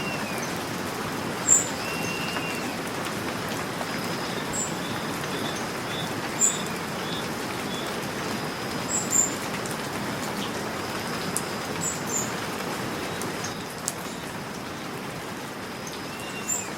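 Steady rain falling, with birds calling over it: short high chirps every few seconds and a few brief arching calls.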